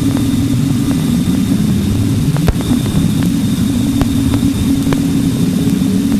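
Sonified spacecraft data: a loud, dense, steady low rumble with a faint high steady tone above it and a few scattered sharp clicks.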